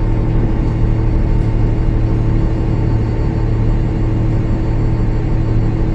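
Cummins ISL9 diesel engine of a Gillig Low Floor transit bus running with a steady low rumble.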